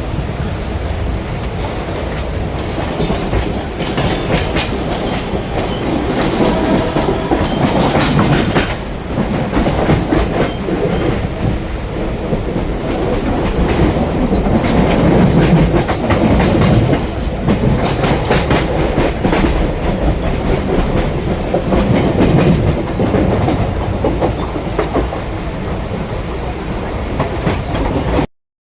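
Mumbai local suburban electric train running along the track: a loud steady rumble with wheels clattering over the rail joints. It cuts off abruptly near the end.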